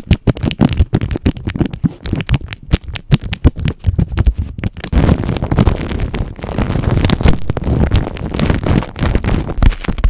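Glazed ceramic tiles handled close to the microphone: quick, dense tapping for about the first five seconds, then a continuous scratchy rubbing over the tiles.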